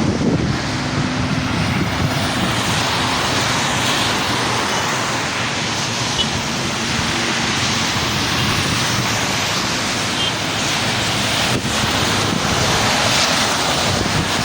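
Steady rain falling, an even hiss with no break, with a low hum in the first second or two.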